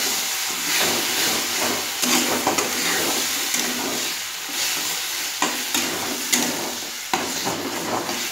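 Soft tomato pieces sizzling in hot oil in a steel kadai while a metal spatula stirs and scrapes them around the pan. Irregular sharp clinks come where the spatula knocks against the metal.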